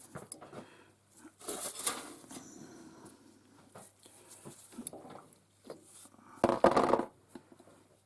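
Intermittent light clatter, clicks and knocks of small objects being handled, with two louder bursts of handling about one and a half and six and a half seconds in.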